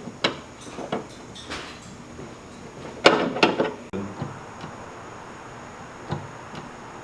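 Scattered clinks and knocks of tools and parts being handled, with a louder clatter about three seconds in.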